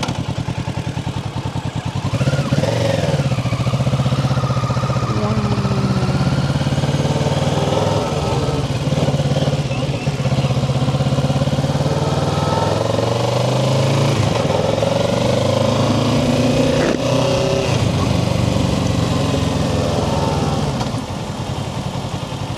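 Kawasaki Ninja 650's parallel-twin engine pulling away through the gears, its pitch climbing and falling back with each shift, then dropping to a lower, steadier note near the end.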